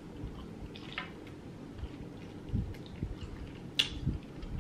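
Close-miked chewing and wet mouth sounds of a person eating crab meat, with soft low thumps and a few short, sharp clicks.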